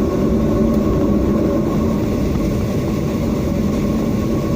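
Steady cabin noise of a Boeing 737-800 taxiing after landing: the CFM56-7B engines at idle give a constant hum with a steady tone over a low rumble.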